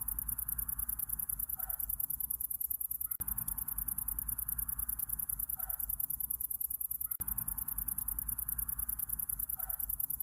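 Summer-night insect chorus: a high-pitched, rapidly pulsing chirring over a low steady rumble. The recording is a loop that repeats every four seconds, with the same short call coming once in each pass.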